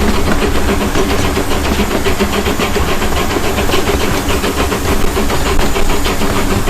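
Steam locomotive of a park train running, a steady hiss of steam with a rapid, even beat of exhaust over a low rumble.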